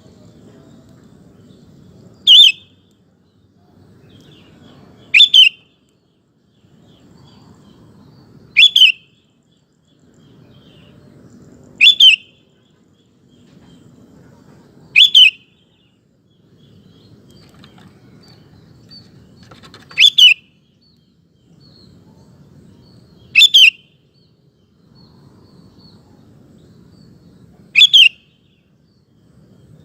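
Sooty-headed bulbul (kutilang) calling: a short, loud double note repeated eight times, every three to five seconds. A faint low rumble of background noise fills the gaps between calls.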